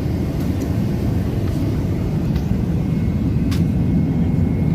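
Steady low rumble of Airbus A380 cabin noise, the engines and airflow heard from inside the passenger cabin, with a few faint ticks.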